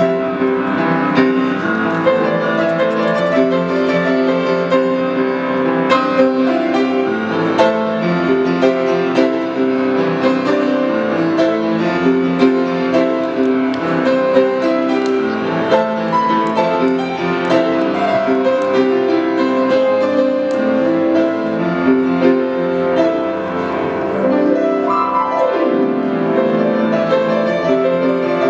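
Piano music: a continuous stream of chords and melody notes.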